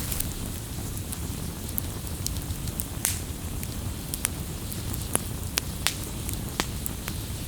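Campfire crackling: irregular sharp pops and snaps, a few of them louder, over a steady low rush from the burning fire.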